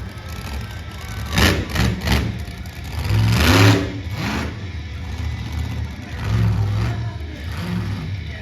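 Monster truck engine revving hard in repeated bursts, its pitch rising and falling with each blip of the throttle.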